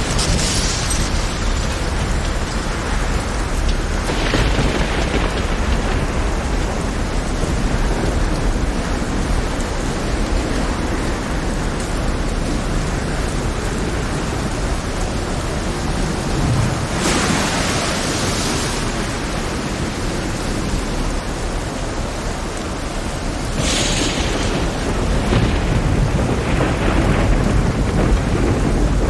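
Heavy storm rain with a constant deep rumble. Several louder crashes rise and fade over a second or two; the biggest comes about seventeen seconds in.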